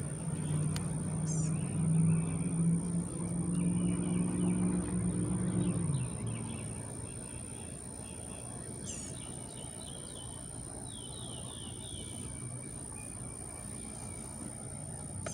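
A vehicle engine hums steadily and then dies away about six seconds in, while small birds chirp on and off, over a constant faint high-pitched whine.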